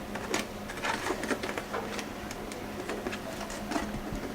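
Irregular light clicks and rattles of a PC case being handled as the drive-bay cover plate is pressed from behind to pop it out, over a faint steady hum.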